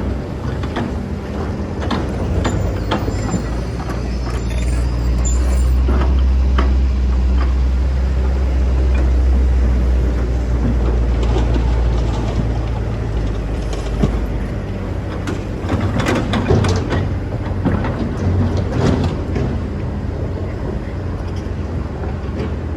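Excavator's diesel engine running, rising under load for several seconds in the middle, with scattered clanks and scrapes from the machine working sand.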